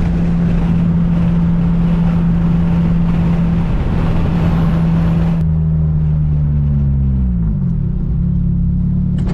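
Built turbocharged 4G63 four-cylinder of a Mitsubishi Lancer Evolution IX running steadily under way. A little past halfway the high road and wind hiss cuts off suddenly, and the engine's pitch then falls as the revs drop before holding steady again.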